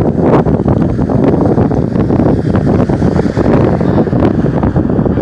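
Wind buffeting the phone's microphone, a loud, steady rumble.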